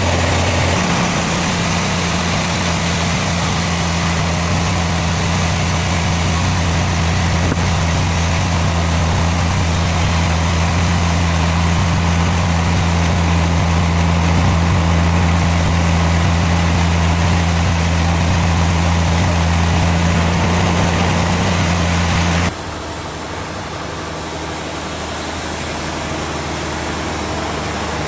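Sawmill machinery running steadily, with a deep, even hum under broad mechanical noise. About three-quarters of the way through it cuts abruptly to a quieter, different machine noise.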